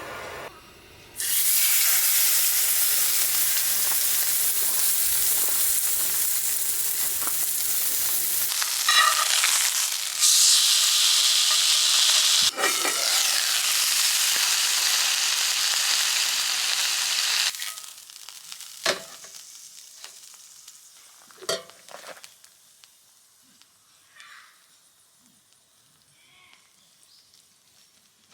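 Chicken sizzling loudly on a grill, a steady hiss that cuts in about a second in and stops abruptly about two-thirds of the way through. Afterwards a few light knocks and clicks.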